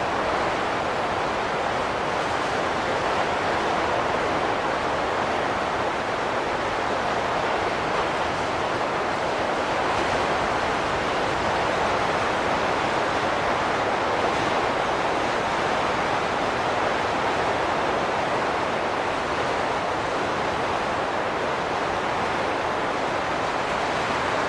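Wind blowing steadily, an even rushing noise that neither rises nor falls, with no gusts or whistling tones.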